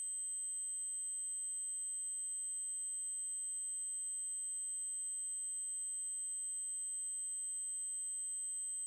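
A steady, high-pitched electronic test tone: an 8192 Hz triangle wave held constant without change.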